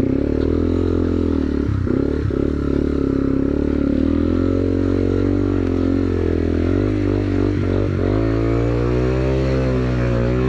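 2009 Yamaha TW200's single-cylinder four-stroke engine running under way off-road, its note wavering with the throttle and dipping briefly about eight seconds in before picking up again.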